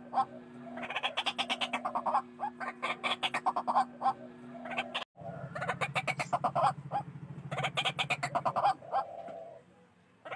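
White-breasted waterhen (ruak-ruak) calling in fast runs of harsh repeated notes, many per second. The calling breaks off abruptly about five seconds in, resumes at once, and pauses briefly near the end.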